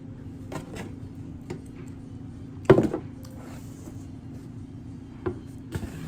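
Scattered clicks and light knocks of objects being handled, with one loud sharp knock a little before the middle, over a steady low hum.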